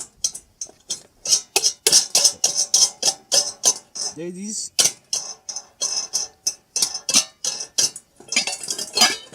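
Rapid series of sharp clicks and clinks, a few a second, as a homemade bird feeder is opened up and handled.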